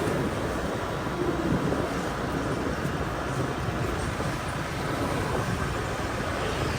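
Steady engine and road noise of a motorbike riding through city street traffic.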